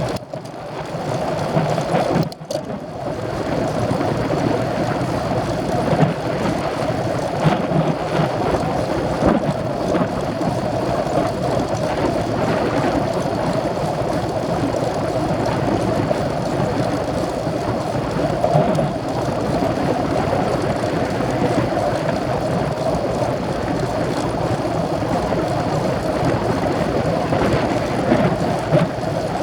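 Steady wind rush over the microphone with tyre and road noise from a racing bicycle being ridden, with a brief lull about two seconds in.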